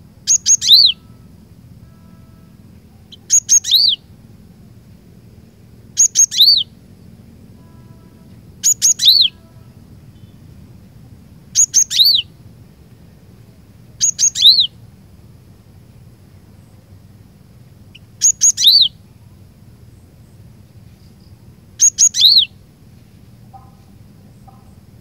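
Cinereous tit (glatik batu) singing: eight short, loud phrases spaced a few seconds apart, each a quick couple of very high notes followed by a downward-slurred whistle. A steady low hum runs underneath.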